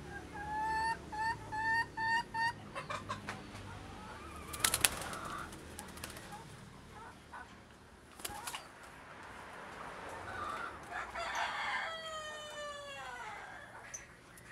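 Baby pigeon (squab) peeping: a quick run of about seven short, slightly rising peeps in the first seconds, and near the end a call that falls in pitch. Sharp clicks and a couple of loud knocks come between them.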